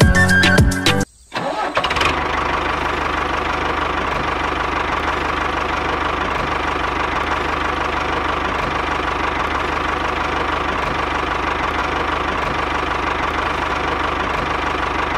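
Background music cuts off about a second in, and the small engine of a homemade mini tractor then runs steadily at an even idle.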